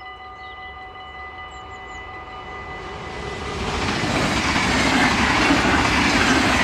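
A Dutch level-crossing warning bell rings steadily as an NS double-deck electric passenger train approaches. The train's running noise builds from about three seconds in to a loud rush as it passes at speed.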